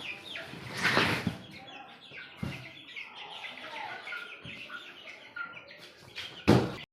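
A flock of young white broiler chicks, about 20 days old, cheeping and chirping continuously. Two louder rustling noises stand out, about a second in and near the end.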